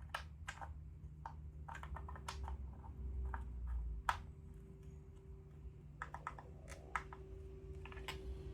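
Irregular light clicks and taps, a dozen or so in quick clusters, from engine parts and hand tools being handled during engine repair, over a steady low hum.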